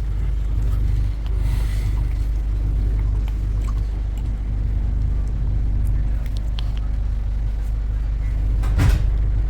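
Road vehicle engine running with a steady low rumble, with a brief sharp knock or clatter near the end.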